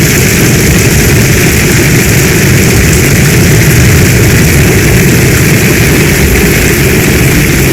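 Heavy rain in a storm: a loud, steady, dense hiss with a deep rumble underneath, no single drops or thunderclaps standing out.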